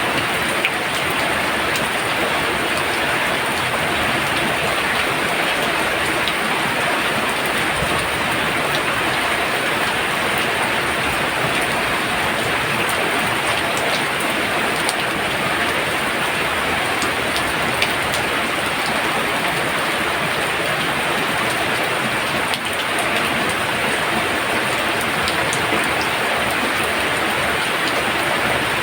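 Very heavy rain falling steadily, a dense even hiss with scattered drop clicks.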